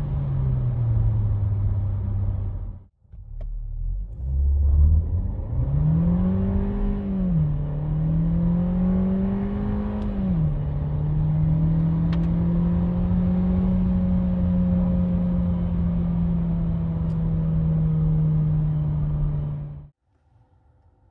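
Skoda Karoq's 1.5 TSI four-cylinder turbo petrol engine accelerating at full throttle from idle. The revs climb high, then drop sharply twice as the DSG gearbox shifts up, and the engine pulls steadily in a higher gear until the sound cuts off near the end. At the start the engine winds down, and there is a brief break before the idle.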